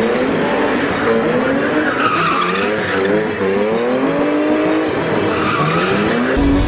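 A drifting car's engine revving up and down repeatedly, with tyres squealing and skidding, loudest about two seconds in and again near the end.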